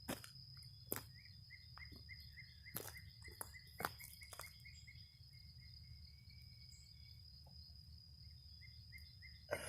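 Faint evening woodland insect chorus: a steady high-pitched insect trill with a repeated chirp about three times a second that pauses for a couple of seconds near the end. A few sharp clicks stand out in the first four seconds.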